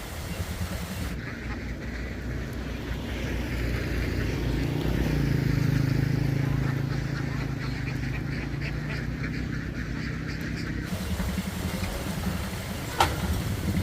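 A large flock of domestic ducks quacking together in a dense, continuous clamour, with a steady low motor hum underneath.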